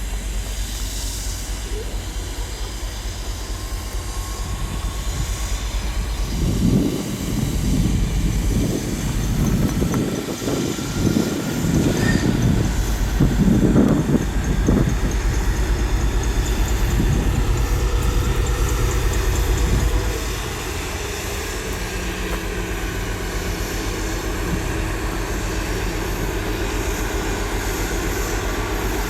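A train running past on the railway with a deep, heavy rumble. It swells about six seconds in and drops off sharply at about twenty seconds, leaving a steady lower hum.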